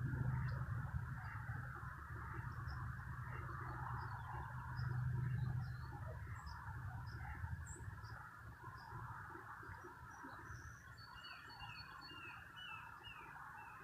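Small birds chirping with scattered short calls, then a quick run of about five downslurred notes near the end, over a steady background hiss and low rumble.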